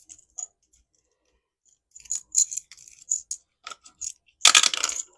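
Small clicks and taps of dice and shut-the-box game pieces being handled on a table, with a louder half-second rattle near the end.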